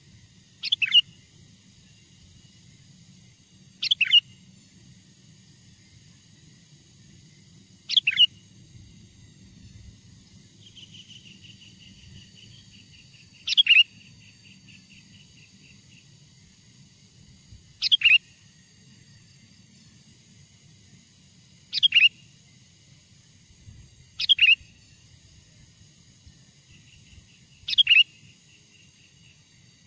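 Sooty-headed bulbul (kutilang) calling: eight short, sharp downward-sweeping calls, about one every four seconds, with a softer rapid chatter twice in between.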